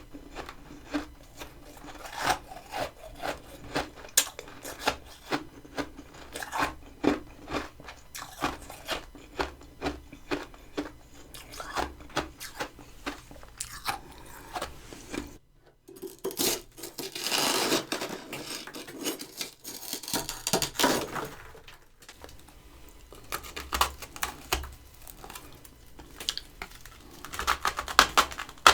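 Crunchy freezer frost, grown with a humidifier, being chewed close to the microphone: a fast run of crisp crunches. There is a short break about halfway, then a few seconds of denser, continuous crunching before the single crunches resume.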